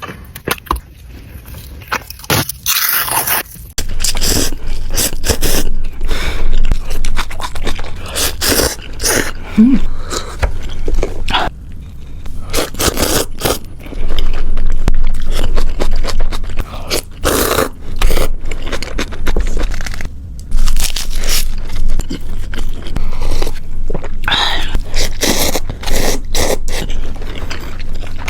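Close-miked eating sounds: scraping with crunching and chewing, coming in many short, loud, irregular strokes.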